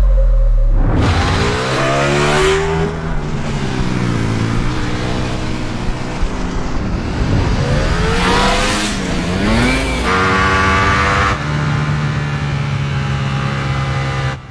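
Ducati Panigale V4's 1103 cc V4 engine at racing speed, its pitch rising and falling repeatedly as it revs up through the gears and drops back under braking. It opens with a low steady rumble and near the end holds a steady high note before cutting off suddenly.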